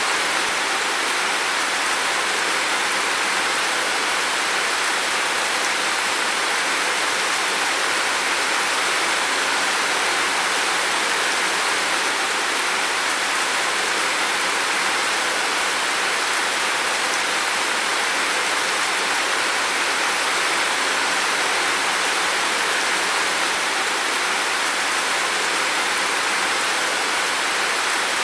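Heavy rain falling steadily, a constant dense hiss with no separate drops or changes.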